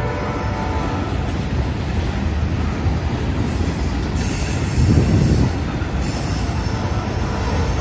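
A loaded freight train of tank cars rolling past close by: a steady rumble of steel wheels on rail, swelling louder for a moment about five seconds in.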